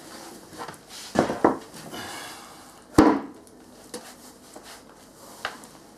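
Wooden plank platform being turned over and set down: a few wooden knocks, two close together about a second in, a brief scrape, then a sharp knock about three seconds in, followed by a couple of faint clicks.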